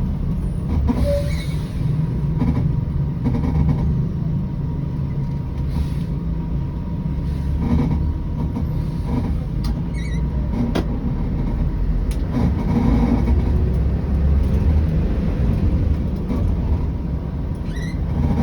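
Scania 113 bus on the move: a steady low diesel rumble, with scattered short knocks and rattles.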